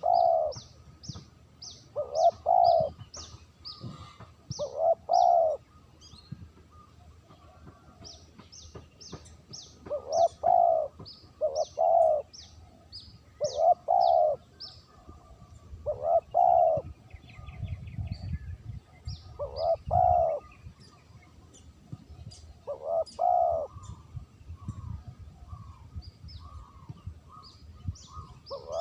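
Spotted dove cooing, its short two- or three-note phrases repeating every two to three seconds, with quick high chirps of small birds between them.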